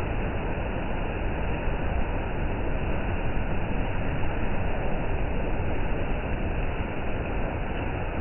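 Steady rain falling, a constant even hiss with a low rumble underneath.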